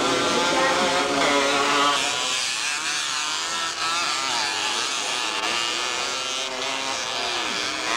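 Motocross motorcycle engines racing, several at once. For about the first two seconds one engine holds a fairly steady note, then overlapping engine notes rise and fall as the throttles open and close.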